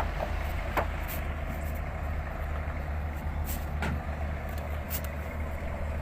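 Engines of motorised jukung river boats running with a steady low drone, with a few short knocks through it.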